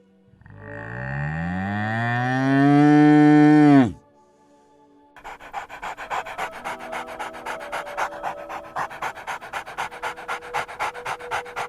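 A cow moos once, a long call that rises in pitch and breaks off abruptly; after a short pause a dog pants quickly and steadily. Faint background music plays underneath.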